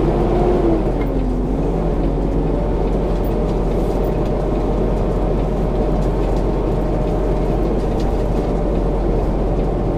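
Semi truck's diesel engine running steadily, a constant low drone with a faint hum that shifts slightly in pitch in the first couple of seconds.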